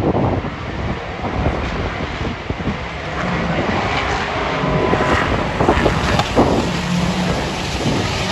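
Race car engines running past at speed, with wind buffeting the microphone.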